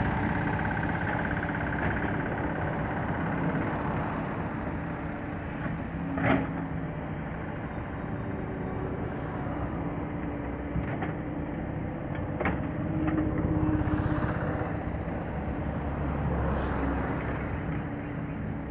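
Diesel engine of heavy road-construction machinery running steadily, with a few sharp metallic clanks.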